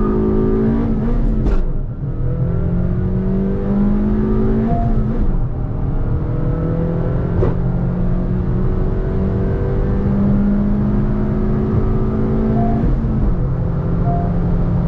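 Honda Elevate's naturally aspirated 1.5-litre i-VTEC four-cylinder petrol engine under full-throttle acceleration. Its note climbs steadily in pitch, then drops sharply about 2, 5 and 13 seconds in as the manual gearbox is shifted up.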